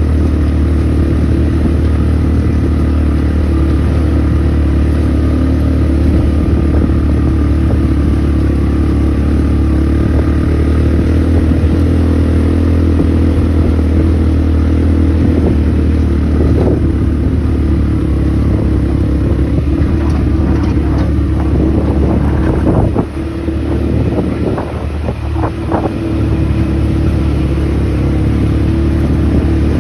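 ATV engine running with a steady low drone while riding. The sound dips briefly about three-quarters of the way through, with a few knocks.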